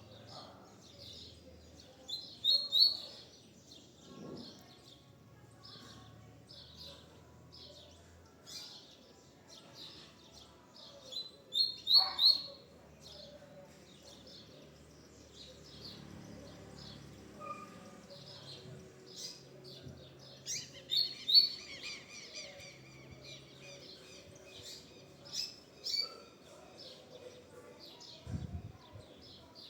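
Double-collared seedeater (coleiro) singing: short high bursts of song, loudest about two to three seconds in, around twelve seconds and again around twenty-one seconds, with quieter chirps repeating in between.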